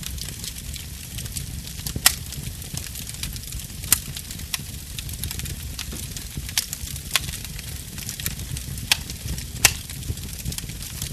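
Burning wood fire crackling over a low steady rumble of flame, with a handful of sharp pops from the wood. The loudest pops come about two seconds in and near the end.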